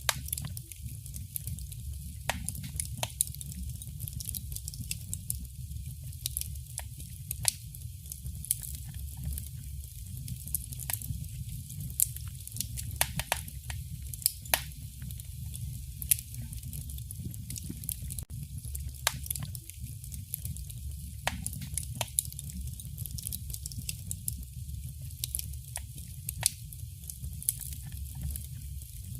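Fire burning in a fireplace: a steady low rumble with irregular sharp crackles and pops from the burning wood, a few of them louder than the rest.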